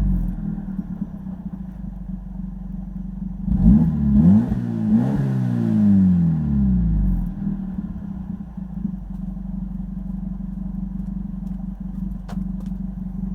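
Exhaust of a Hyundai Getz 1.3i four-cylinder petrol engine with the rear muffler removed, the catalytic converter and middle muffler still fitted. The revs fall to idle at the start; about three and a half seconds in, a few quick throttle blips rise and fall, and the revs drop back over a couple of seconds. It then idles steadily.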